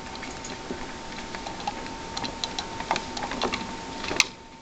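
Pet rats scrabbling and gnawing about their cage and toys: irregular small clicks and scratches, with one sharper click about four seconds in.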